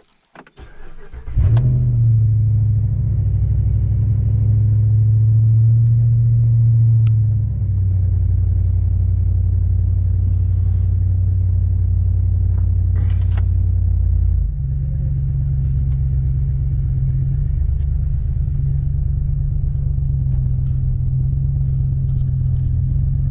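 A 2016 Ram 1500's 5.7-litre Hemi V8 starts after a brief crank about a second in, running on its freshly flashed engine and transmission tune. It then idles steadily, the idle stepping down about six seconds in and again about halfway through as the engine settles into its warm-up.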